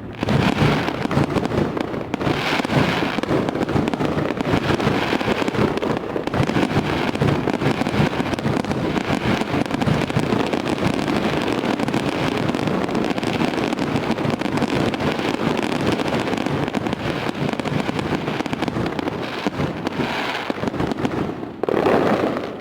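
Fireworks going off in a dense, continuous barrage: rapid crackling and popping over a steady low booming, with one louder burst near the end.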